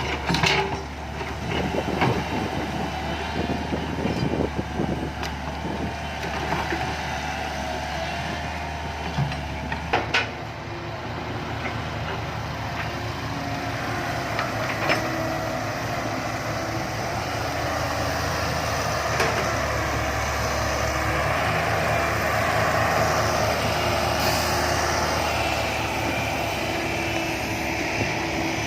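Heavy diesel machinery, a backhoe and dump truck at work, running steadily, with sharp knocks near the start and about ten seconds in.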